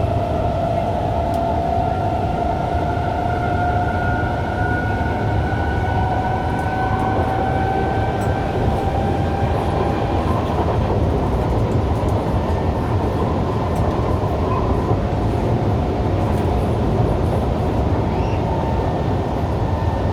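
Kawasaki C151 MRT train's traction motors whining under the rumble of the car, the whine rising slowly in pitch as the train gathers speed, then fading about halfway through into steady running noise.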